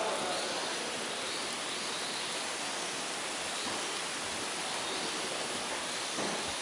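Faint birdsong in a mountain forest: short arched calls high in pitch, repeating every second or so, over a steady even hiss.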